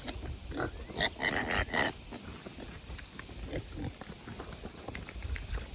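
Half-grown piglets grunting and squealing in short calls, busiest in the first two seconds, then quieter.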